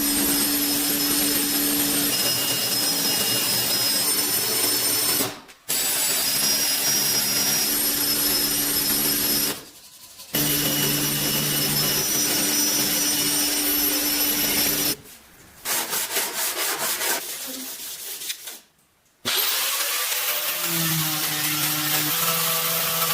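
Handheld power tool running steadily with a hissing, rubbing noise, in several clips that cut off and restart abruptly; partway through comes a fast run of clicks.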